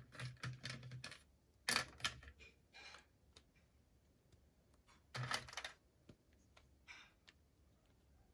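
Handling sounds while toy packaging is unboxed: a quick run of small clicks and taps in the first second, louder crinkly rustles around two seconds and again around five seconds in, and scattered light ticks between.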